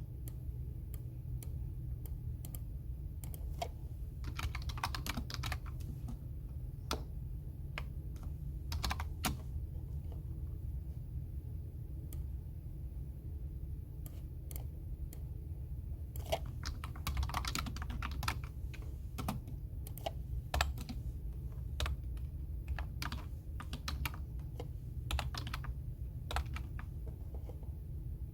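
Computer keyboard typing in short, uneven bursts of key clicks with pauses between them, over a steady low hum.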